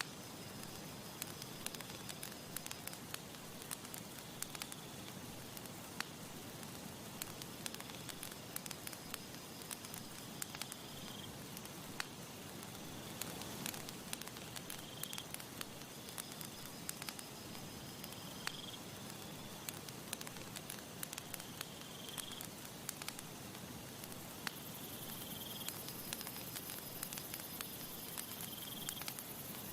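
Campfire burning, with frequent sharp crackles and pops over a steady hiss. Faint short high chirps repeat every few seconds, and a high thin buzz comes in near the end.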